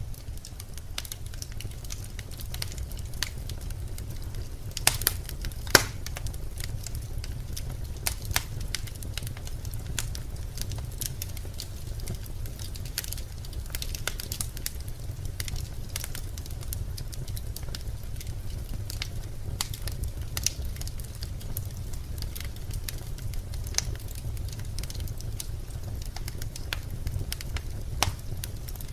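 Burning birch logs in a fireplace crackling, with irregular sharp pops over a low steady rumble of the fire; the loudest pops come about five and six seconds in and again near the end.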